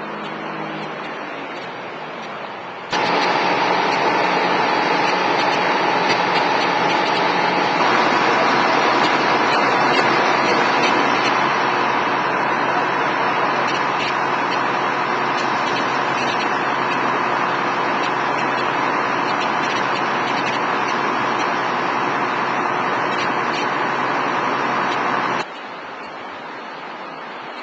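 A loud, steady engine or motor running with a held hum. It starts abruptly about three seconds in and cuts off just as suddenly a few seconds before the end.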